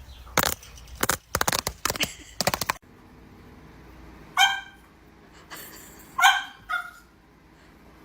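A dog barking: two loud barks a couple of seconds apart, the second followed by a shorter one. Before the barks, in the first few seconds, comes a quick run of sharp knocks or clatter.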